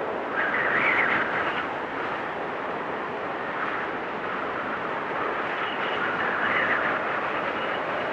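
Storm wind blowing hard and steadily, swelling in two louder gusts, one about half a second in and one around six seconds in, with a faint high whistle in the second half.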